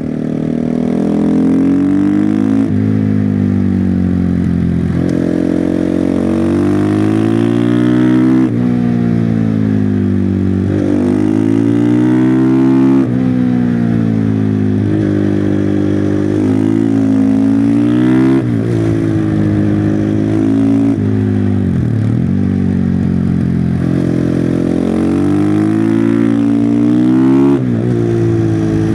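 Husqvarna FE501's single-cylinder four-stroke engine through its stock exhaust, revving hard on a winding road. The pitch climbs and falls over and over, with sudden drops at gear changes about five times and a deep fall in revs about two-thirds of the way through.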